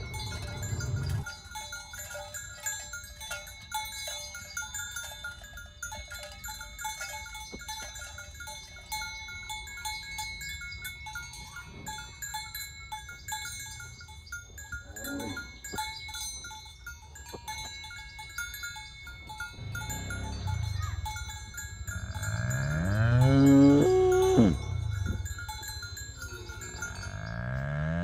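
Cows mooing: one long, loud moo that rises then falls in pitch about twenty-two seconds in, and another beginning at the very end, over a light clinking and ringing with small clicks.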